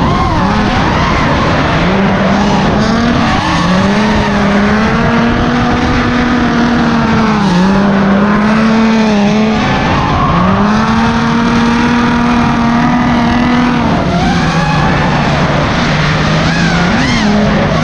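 Drift car engine held at high revs while the tyres skid. The pitch drops sharply and climbs back up about three times, around the middle and near the end.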